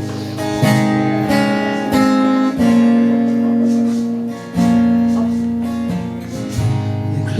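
Instrumental intro of a slow song played live, led by strummed acoustic guitar, its chords changing every second or so.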